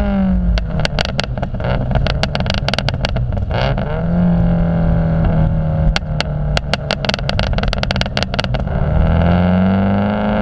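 A car's engine and exhaust running loud. The note falls at the start, then holds a steady drone broken by two long runs of rapid sharp crackles, and the revs climb again near the end.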